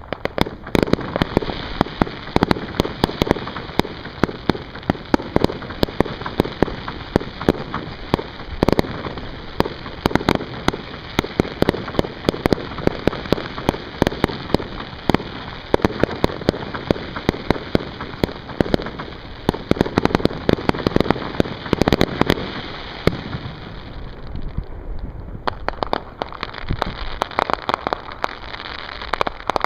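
Fireworks crackling and popping in a dense, near-continuous stream of sharp cracks, thinning briefly about 24 seconds in before picking up again.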